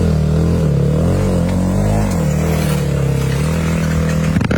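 Off-road motorcycle engine revving close by. Its pitch rises and falls over the first two seconds, then holds fairly steady, and the sound cuts off abruptly right at the end.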